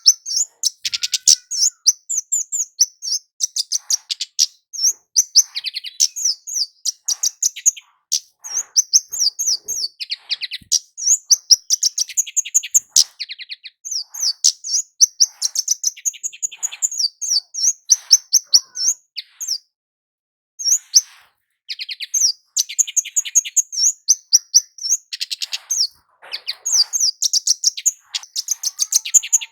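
Flowerpecker (kemade jawa, the bird called cit keres or burung cabe) singing: quick runs of very high, thin chirping notes in repeated bursts, with a pause of about two seconds some twenty seconds in.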